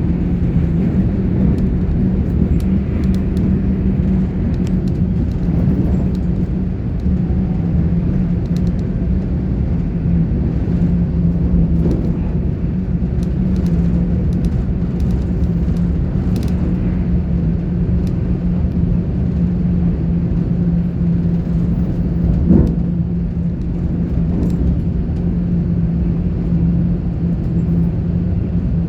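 GWR Class 800 IET train heard from inside the carriage while running: a steady low rumble of wheels on rail with a constant hum, scattered faint ticks, and a single knock about three-quarters of the way through.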